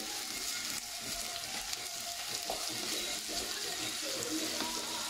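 Shredded chicken sizzling in olive oil in a steel pan, stirred and scraped with a wooden spatula: a steady frying hiss with small scraping ticks.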